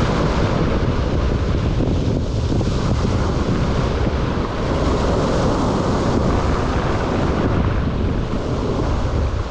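Sea surf washing on the shore, its hiss swelling and easing, under a steady low rumble of wind on the microphone.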